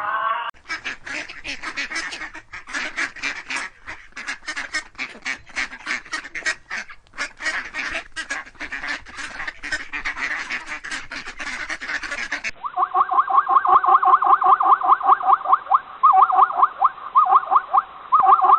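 Ducks quacking in quick, repeated calls. About twelve seconds in, a different recording starts, with faster, higher chattering quacks.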